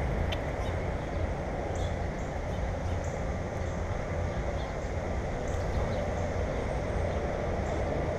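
Steady rumbling noise, like a moving vehicle, with short high chirps every second or two.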